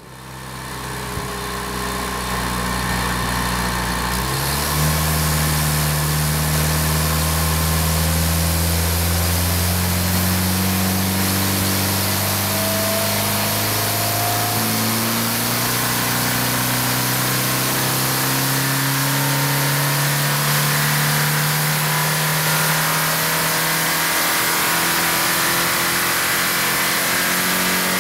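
Volkswagen 2.0 TSI Gen3 (EA888) turbocharged four-cylinder running hard on an engine dynamometer under sustained high load. The sound fades in at the start, the engine note steps up about four seconds in, and then the pitch climbs slowly and steadily.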